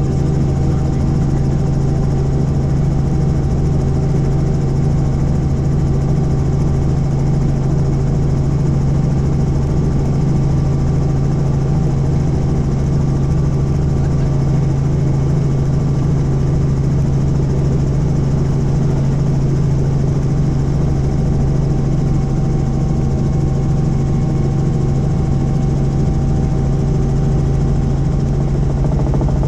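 Helicopter in flight: a steady drone of engine and rotor with a strong low hum that does not change.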